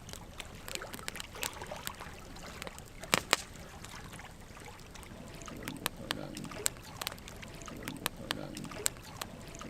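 Wood campfire burning: logs crackling with sharp, irregular pops, the loudest two close together about three seconds in, over a low rumble that swells at times in the second half.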